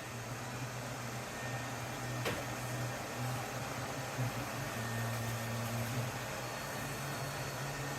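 Lefant M330 Pro robot vacuum running, a steady motor hum with a hiss of suction, and a single light click about two seconds in.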